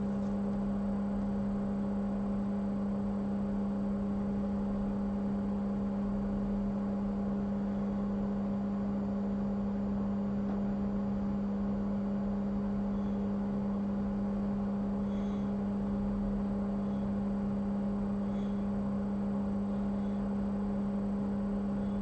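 Steady electrical hum from repair-bench equipment: one strong low tone with fainter overtones above it, unchanging in pitch and level.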